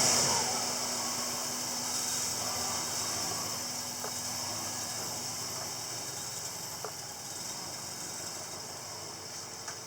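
Subaru EJ207 engine running, heard as a steady hiss with a faint hum that slowly fades, and a few light clicks.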